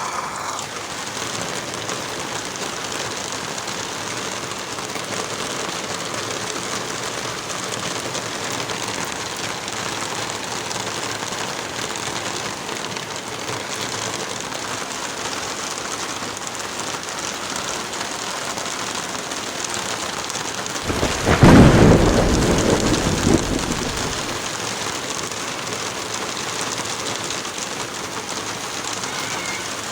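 Heavy rain falling steadily, with one loud clap of thunder about two-thirds of the way through that rumbles away over a few seconds.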